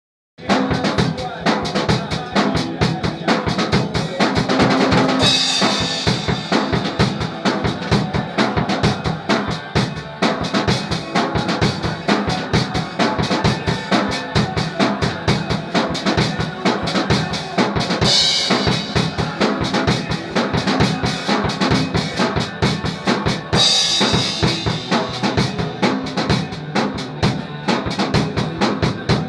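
A drum kit played with fast, steady strokes on the drums, with crashes of a cymbal about 5, 18 and 24 seconds in.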